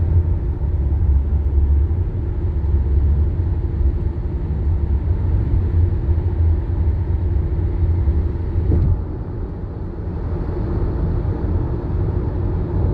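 Car travelling at highway speed, heard from inside the cabin: a steady low rumble of road and engine noise. It drops a little in level about nine seconds in.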